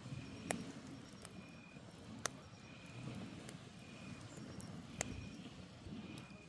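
Wood fire crackling, with a few sharp pops: about half a second, two and a quarter seconds and five seconds in. Grass insects chirp in short high pulses about once a second over a low rumble of sea waves.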